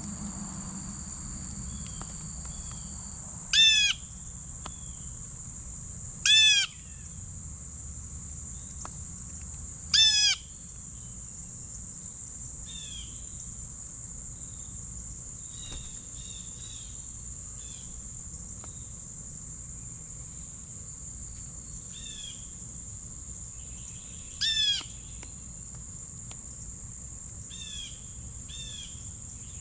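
A bird calling: four loud calls of under half a second each, several seconds apart, with fainter calls between. A steady high tone runs underneath throughout.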